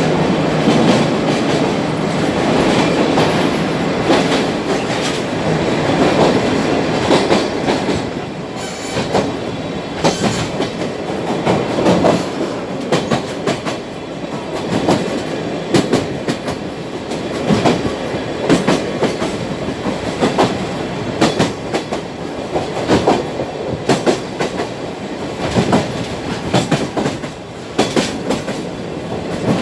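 Sagano trolley train running along the track, its wheels clacking over rail joints above a steady rumble. The knocks come in an irregular run that grows sharper and more frequent after the first few seconds.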